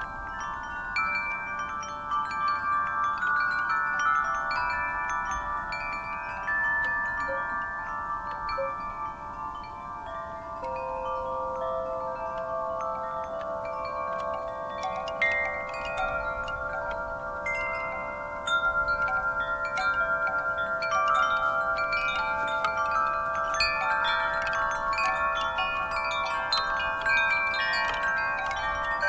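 Wind chimes stirred by a breeze, many tubes struck again and again and left ringing into one another, growing busier and a little louder about two-thirds of the way through.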